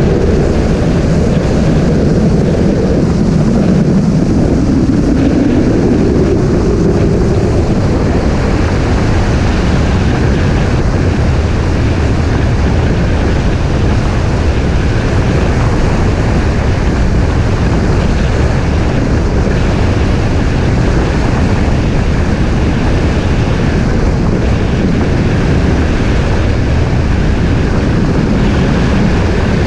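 Strong wind buffeting the microphone over the steady low rumble of a moving vehicle's motor. A pitched hum from the engine shows through during the first several seconds.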